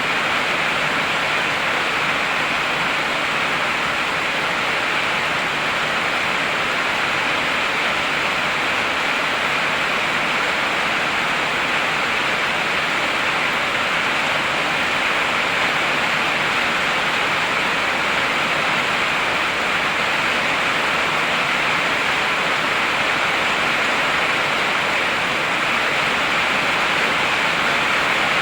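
Heavy rain pouring steadily, an even hiss that does not let up.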